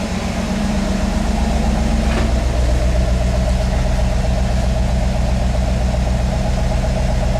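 1993 Camaro Z28's LT1 350 V8 idling steadily while it warms up after a cold start, getting a little louder over the first second.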